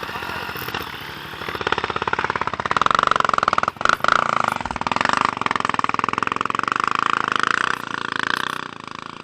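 Dirt bike engine running with a rapid pulsing note, revving up about a second and a half in and holding, with a brief dip near the middle and dropping away near the end.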